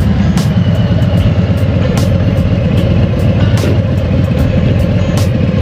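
Harley-Davidson Road Glide's V-twin engine running at low speed, a steady, loud, low rumble.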